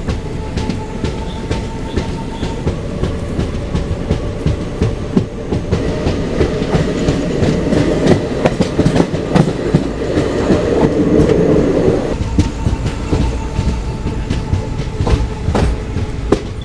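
Passenger train coach running along the track, wheels clicking over the rail joints over a steady rumble; it grows louder for a few seconds in the middle, with a faint steady whine before and after.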